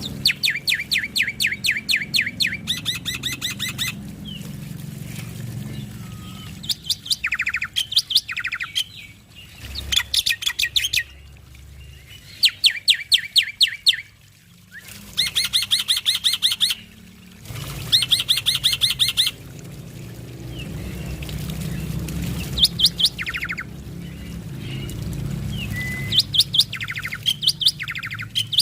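Male black-winged starling (jalak putih) singing in a series of loud bursts of rapid, evenly repeated chattering notes, each burst lasting one to two seconds, with short pauses between.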